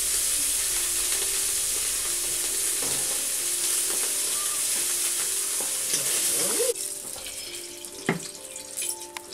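Food frying in hot oil in an iron wok: a steady, loud sizzle with a few scrapes of a metal ladle, cutting off suddenly about two-thirds of the way through. After that it is much quieter, with a single sharp knock.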